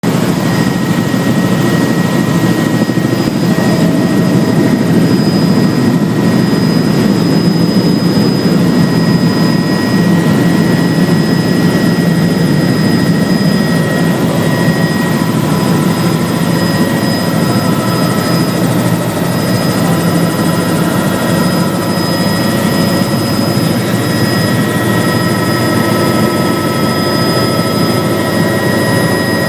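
Helicopter's rotor and turbine engine running steadily and loud: a dense rotor rumble under thin, steady high turbine whines.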